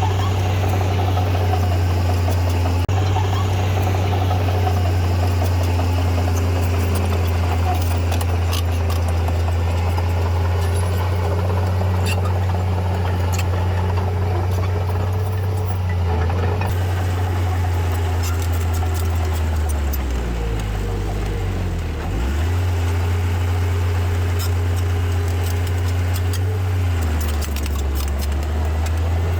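Heavy earthmoving machine's diesel engine running steadily under work, with scattered clanks. Its pitch sags and comes back up about two-thirds of the way through, then drops again near the end.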